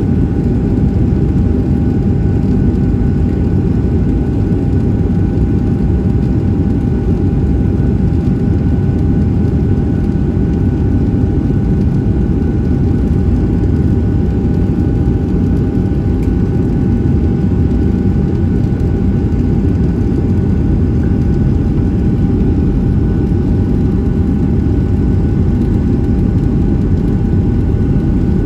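Steady cabin noise of a Boeing 737-700 in flight: a constant low rumble from the CFM56-7B engines and airflow, with a steady whine held on one pitch throughout.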